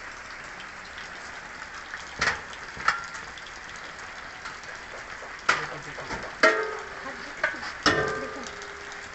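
Several sharp metallic clanks of a utensil against a cooking pot, a few ringing briefly, with a steady hiss underneath.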